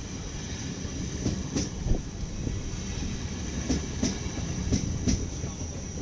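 NS ICMm 'Koploper' electric multiple unit rolling into the station close past the platform: a steady wheel-and-rail rumble with irregular clacks as the wheels cross rail joints, and a steady high-pitched whine over it.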